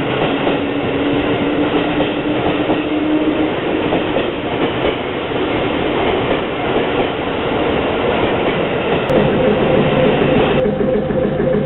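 Seibu 101-series electric commuter train moving along a station platform, its traction motors humming on a slightly rising tone that fades out a few seconds in, with steady running noise from the wheels on the rails. Near the end the sound switches abruptly to the running noise heard inside a moving train car.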